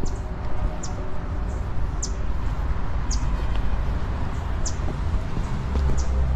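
Small birds giving short, high, falling chirps every second or so, over a steady low rumble that gets louder near the end.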